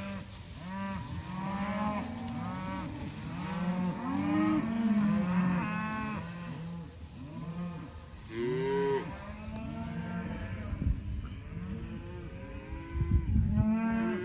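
A herd of beef cows and calves bawling continuously, many calls overlapping, each rising and falling in pitch. This is typical of cows and calves calling to match up with each other after a drive. A few low rumbles come in near the end.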